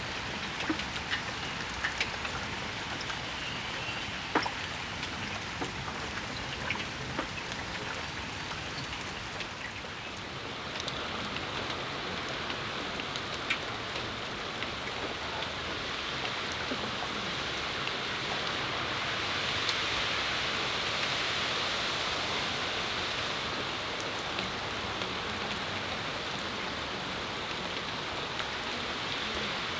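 Steady rain falling on a patio, with single drops clicking close by. The hiss swells through the middle and eases a little near the end.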